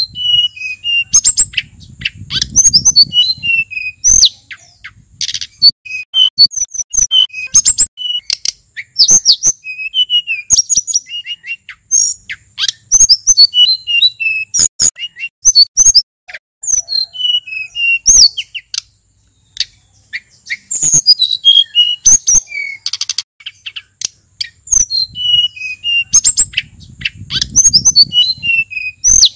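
Male sulingan gunung songbird singing a fast, varied song of chirps and whistled notes that slide up and down, with only brief pauses. A faint low rumble sounds under it twice.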